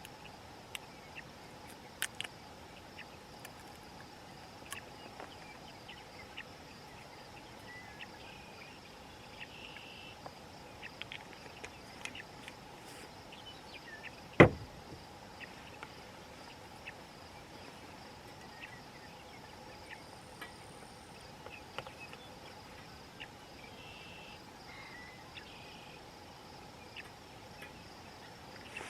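Crickets chirping steadily in the evening quiet, with scattered small clicks and taps and one sharp knock about halfway through.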